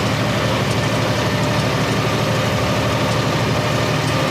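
Truck engine running steadily, a low even hum with no change in speed.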